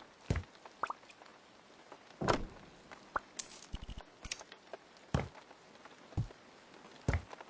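Scattered knocks, thuds and light clinks of objects being handled and set down, with a brief scrape a little before the middle.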